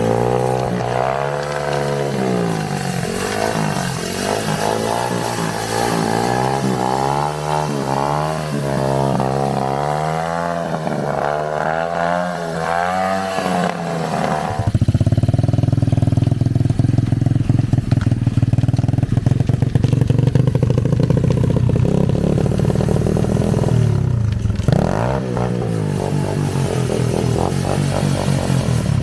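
Dirt-bike engine of a drift trike revving up and down repeatedly, then held at a steady high rev, louder, for about ten seconds from halfway through, and swinging up and down again near the end.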